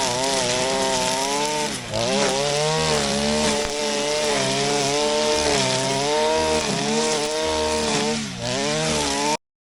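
Shindaiwa RK3026-PT brush cutter's 25.4 cc two-stroke engine running at high revs while cutting grass, its pitch dipping briefly twice and recovering. The sound stops abruptly shortly before the end.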